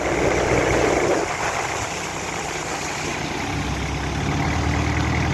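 Inboard engine of a vỏ lãi boat running steadily on the water, its note shifting about a second in and picking up again about three and a half seconds in.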